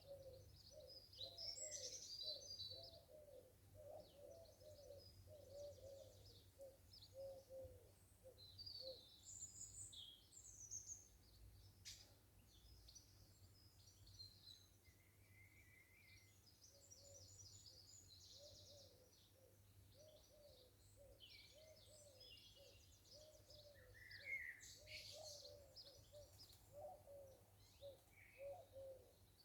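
Faint garden birdsong: several birds chirping and singing in short high phrases, over a run of lower, short repeated notes.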